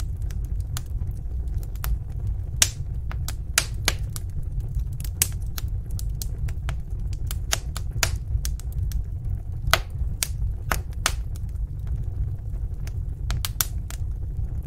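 Wood fire in a fireplace crackling, with irregular sharp snaps and pops over a steady low rumble of the flames.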